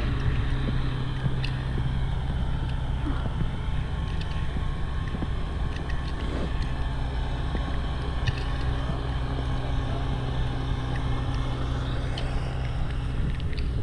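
Diesel tractor engine running steadily, a low even drone.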